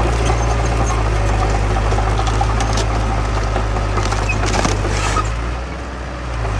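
Heavy diesel engine of earthmoving machinery running with a steady deep rumble, which drops for about a second near the end and then picks up again.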